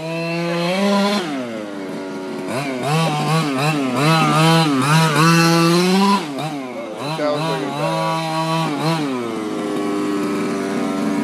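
Small two-stroke petrol engine of an HPI Baja 5SC RC truck revving up and down in repeated throttle bursts, then settling to a steady idle about nine seconds in.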